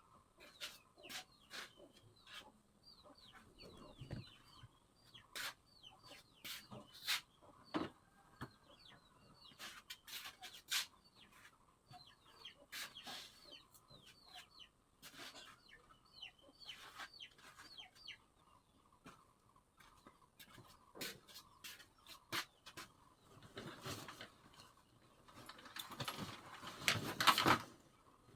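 Chickens clucking faintly, with many short high chirps and scattered light clicks and knocks. A louder rustling stretch comes near the end.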